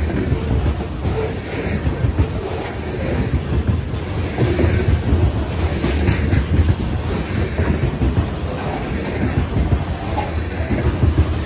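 Freight train of covered grain hopper cars rolling past at close range: a steady rumble of steel wheels on the rails, with repeated clicks as the wheels pass over rail joints.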